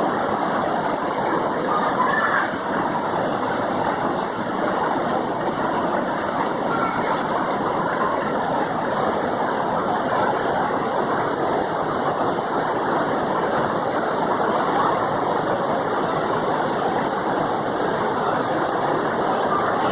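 Stream water rushing steadily, a constant even wash of flowing water.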